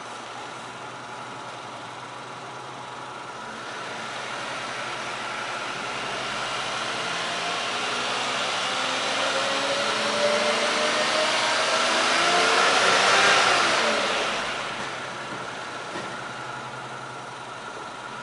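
Honda Life G 4WD's 660 cc three-cylinder engine idling, then revved slowly up, higher and louder for about ten seconds, before dropping quickly back to idle.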